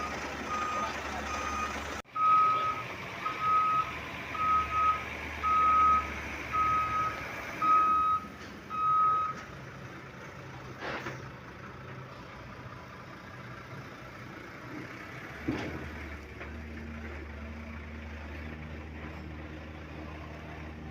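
Reversing alarm on a heavy vehicle, a single-tone beep repeating about once a second, which stops about nine seconds in. A diesel engine runs steadily underneath, with a couple of faint knocks later on.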